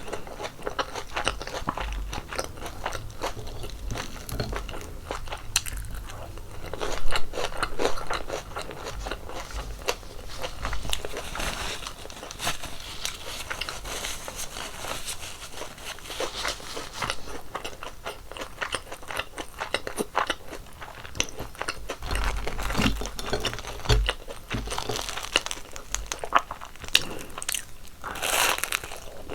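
Close-miked biting, crunching and chewing of crispy fried twisted doughnuts (kkwabaegi), with dense crackling crunches throughout.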